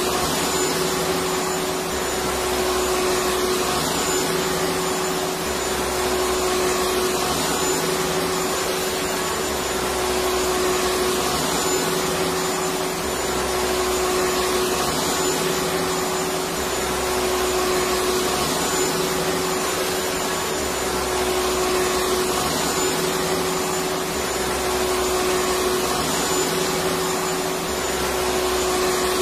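Electric vacuum cleaner running steadily: a constant rush of air with a steady whine, and a low hum that swells and fades about every two seconds.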